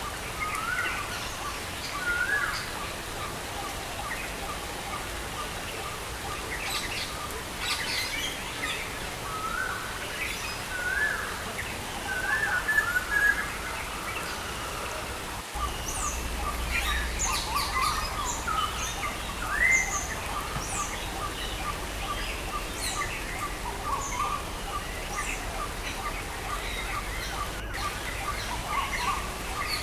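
Several wild birds chirping and calling over a steady hiss of rain, with a short note repeating evenly a few times a second. A low rumble joins about halfway through.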